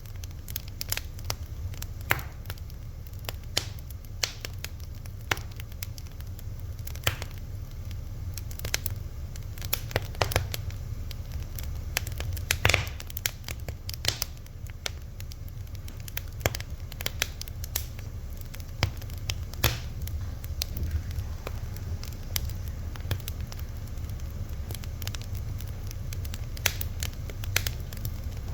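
Fire crackling, with irregular sharp pops and snaps, several a second, over a steady low rumble.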